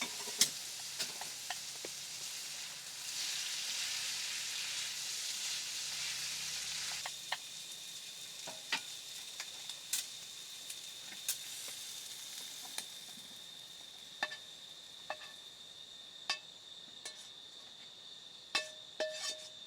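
Food sizzling in a pan, with scattered light clicks and taps of a utensil. The sizzle drops away about seven seconds in, leaving a faint steady high whine and occasional clicks.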